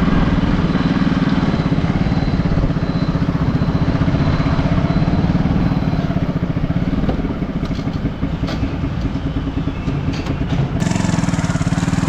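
Motorcycle engine running while the bike rides slowly, its sound easing off for a few seconds past the middle before picking up again.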